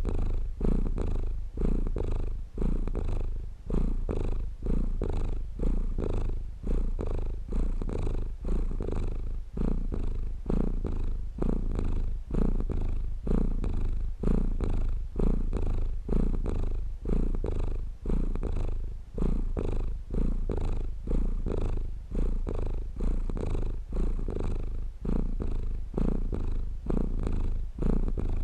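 Domestic cat purring close up, a steady low rumble that swells and eases about once a second with each breath in and out.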